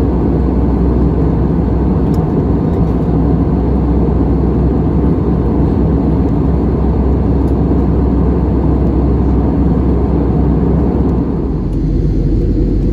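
Steady airliner noise of an Airbus A320-200, engines and rushing air heard from inside the cabin. About 11.5 seconds in, the higher part of the noise falls away and a deeper rumble remains.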